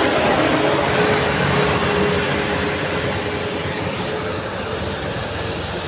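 Heavy truck engine running under load as it passes on an uphill climb, with one steady drone over road noise, slowly fading away.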